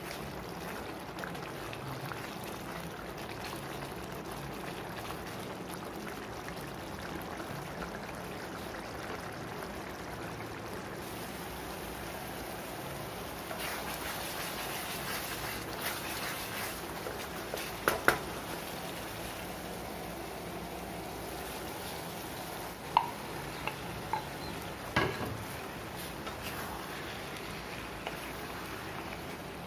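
Thick spiced gravy sizzling and bubbling in a nonstick frying pan as it is stirred with a spatula. A few sharp knocks of the spatula against the pan come in the second half.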